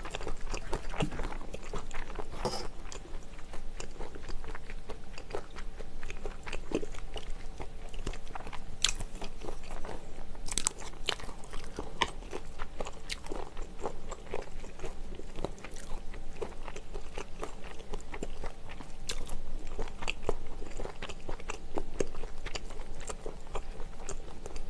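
Close-miked chewing and crunching of a mouthful of food, with many irregular crackles and a few sharper clicks.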